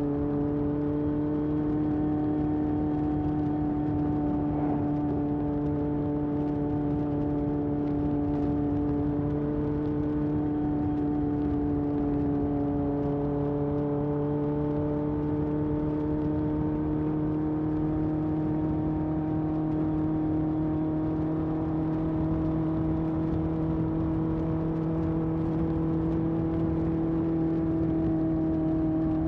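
1981 Honda CB750F's air-cooled inline-four engine running through a period Yoshimura exhaust, cruising at a steady engine speed that climbs slightly near the end.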